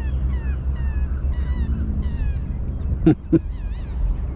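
Low grunting rumble of an American alligator, with small birds chirping repeatedly over it. Two short, loud knocks come about three seconds in.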